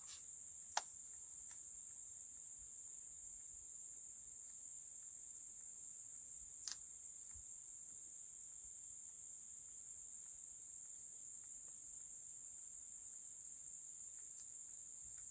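Steady, high-pitched chorus of insects, with one sharp click about a second in and a fainter click near the middle.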